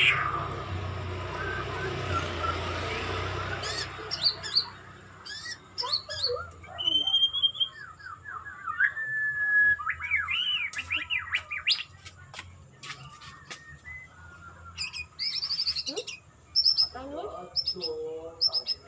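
Murai songbird singing a varied song of clear whistles, pitch glides and trills, with bursts of rapid, very high notes about three-quarters of the way through. A rushing noise fills the first few seconds.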